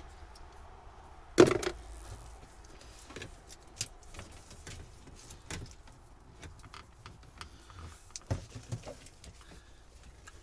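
Hands working among a boat's old wiring and fittings: scattered clicks, light rattles and knocks, with one sharp knock about a second and a half in and a smaller one near the end.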